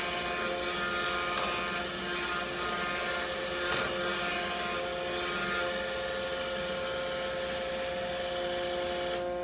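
iRobot Roomba Combo i5+ robot vacuum's suction motor running with a steady whine over fan noise, with one sharp click a little over a third of the way in. Near the end the motor cuts off and its whine falls in pitch as it spins down, as the cleaning run stops.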